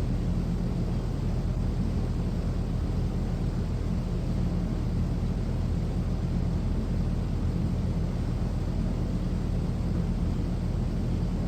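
Steady low background rumble with a constant hum, with no breaks or changes.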